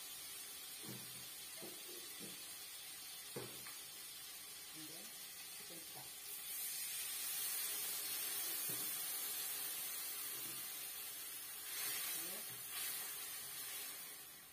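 Sauce with dried chili and ginger sizzling in a wok: a steady hiss that swells about six seconds in, as steam rises off the pan, and again near the end as it is stirred. Faint voices in the background.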